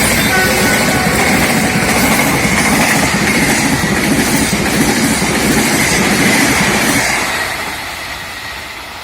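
Passenger train passing close by at speed, its wheels clattering over the rail joints in a regular rhythm, with a steady high ringing from the wheels on the rails. The sound fades away about seven seconds in as the last cars go by.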